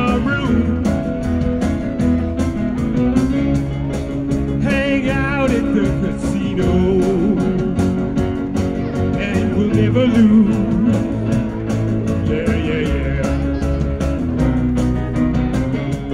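Live rock band playing an instrumental passage: a lead guitar with bent, wavering notes over steady bass and drums.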